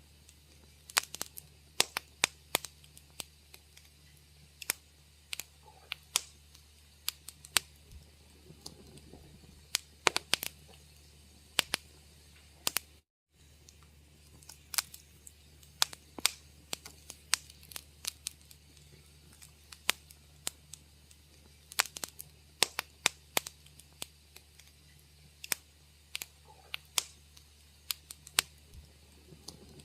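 Wood fire in a fireplace crackling, with irregular sharp pops and snaps, several a second in clusters, over a faint low steady hum. The sound drops out completely for a split second about thirteen seconds in.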